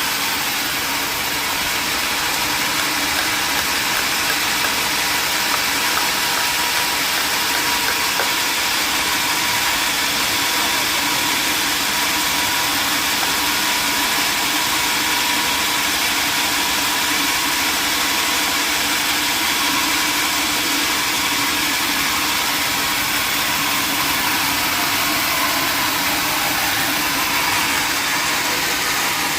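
Sawmill machinery running steadily: a constant loud noise with a steady hum and no breaks.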